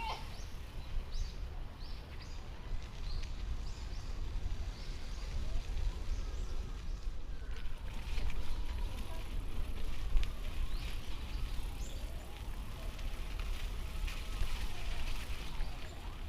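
Wind buffeting the microphone of a moving bicycle, heard as a heavy, uneven rumble, over the hiss of tyres on a wet path. There are a few short, high chirps in the first few seconds.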